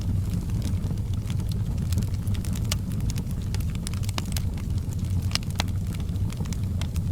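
Wood fire burning in a fireplace: a steady low rumble of flame with scattered sharp crackles and pops, a few louder snaps in the middle.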